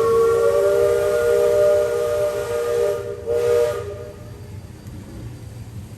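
The Liberty Belle riverboat's steam whistle blowing a chord of several notes with a hiss of steam. It breaks off just after three seconds in, sounds again briefly and stops about four seconds in.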